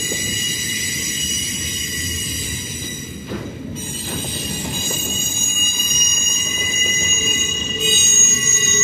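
Freight cars of a CSX train rolling past, their wheels squealing in a steady high pitch over a low rolling rumble. The squeal fades briefly about three and a half seconds in, then comes back stronger near the end.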